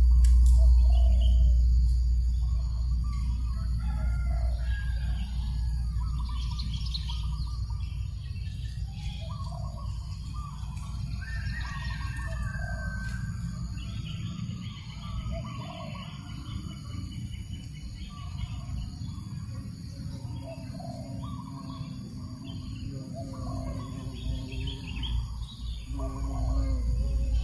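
Farmyard birdsong: many small birds chirping and calling, with chickens and a rooster crowing among them. A low wind rumble on the microphone is strongest at the start and the end.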